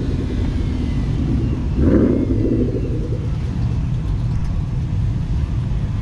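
Car engines idling and creeping past at low speed in a steady low rumble, with a brief louder burst from an exhaust about two seconds in.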